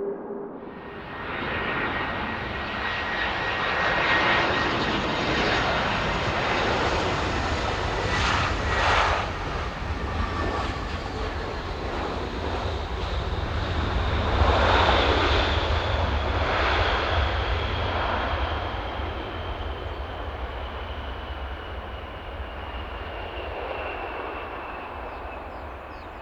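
Jet airliner's engines roaring as it passes close by, building to a peak and then slowly fading, with a high engine whine that falls steadily in pitch as it moves away.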